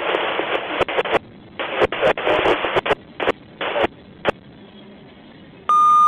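Railroad scanner radio giving bursts of static that switch on and off with sharp clicks as the squelch opens and closes, then a single steady high beep lasting under a second near the end.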